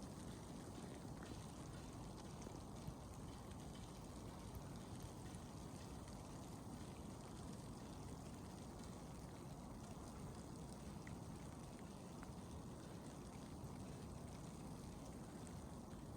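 Steady low rush of blizzard wind in a winter forest, with a few faint ticks.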